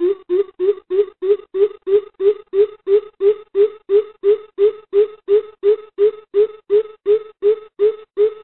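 Greater coucal calling: a long, even series of deep hoots, about three a second.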